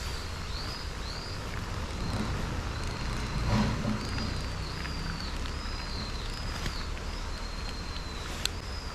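Mountain stream rushing steadily, with a small animal's high chirping call repeated roughly twice a second throughout, and a single sharp click near the end.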